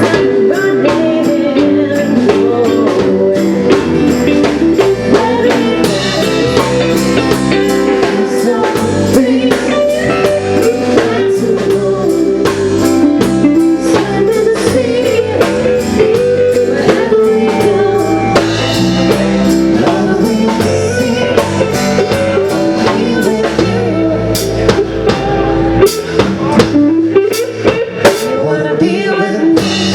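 Band music: a drum kit keeping a steady beat under guitar, with a few heavier drum hits near the end.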